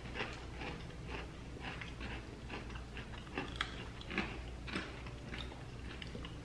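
Close-up chewing and biting of a crunchy dark chocolate coconut Barnana snack, heard as irregular crisp crunches several times a second.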